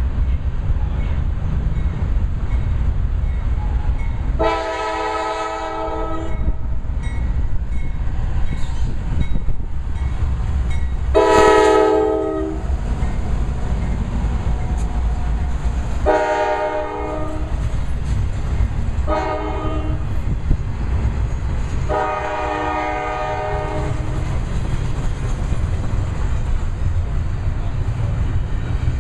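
Freight train diesel locomotive horn sounding five blasts, the first two and the last long and the fourth short. Underneath runs the steady low rumble of the passing train and its rail cars.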